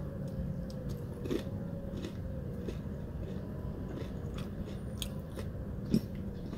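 Close-up chewing of crispy fried chicken: soft mouth sounds with scattered crisp crackles of the breading, and one louder crunch near the end. A steady low hum sits underneath.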